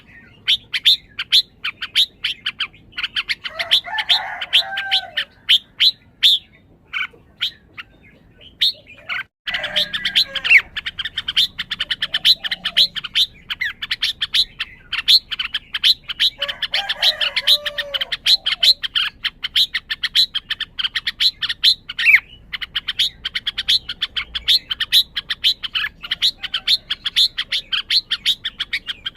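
Red-whiskered bulbul calling in a fast run of sharp chirps, several a second, broken by a few short pauses, with some lower warbled phrases mixed in. The owner wonders whether calling like this is a sign of high excitement.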